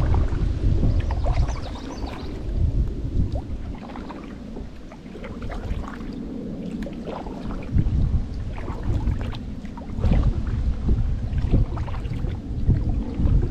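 Kayak paddling: water splashing and dripping off the paddle, with gusty wind buffeting the microphone as a low rumble that comes and goes.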